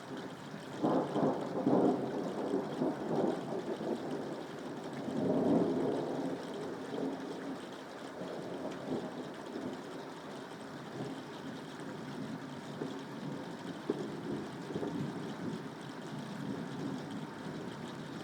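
Rolling thunder over steady soft rain. The rumble swells about a second in and again around five seconds in, then rolls on more softly.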